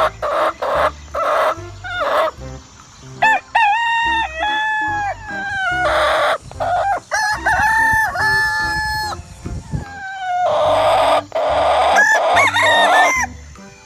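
Roosters crowing several times, with hens clucking and squawking between the crows.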